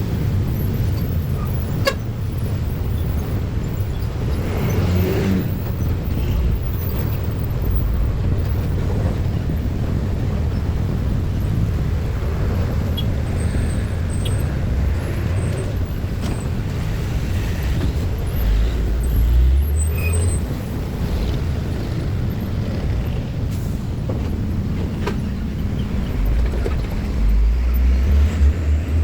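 Motor vehicle traffic: engines and tyres running in a steady low rumble, with heavier engine swells about two-thirds in and again near the end.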